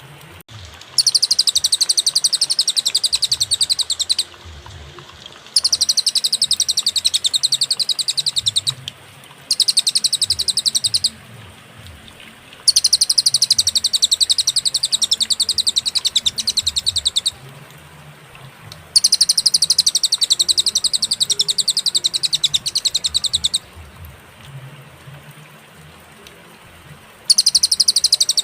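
Cililin singing a fast, high, rapid-fire trill in runs of a few seconds each, broken by short pauses: a clear, spaced-out song of the kind used as a training recording for songbirds.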